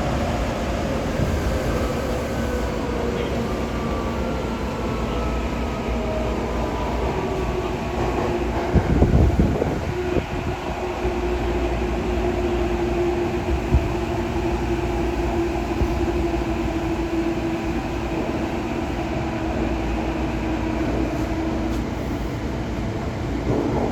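Tokyo Metro 8000 series subway train running between stations: a continuous rumble of wheels on rail with a motor whine, slowly falling in pitch early on and then holding steady. A short jolt of heavier rumble comes about nine seconds in and again at the very end.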